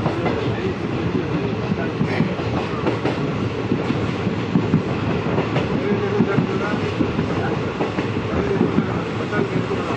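Passenger train running along the track: a steady rumble of the coach with irregular clatter and knocks from the wheels on the rails.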